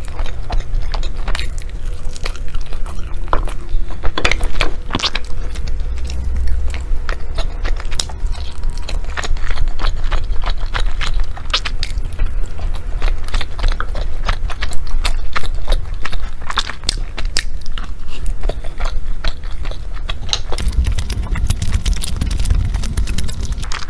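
Close-miked biting and chewing of a savoury meat glutinous rice dumpling (zongzi), with many small mouth clicks throughout.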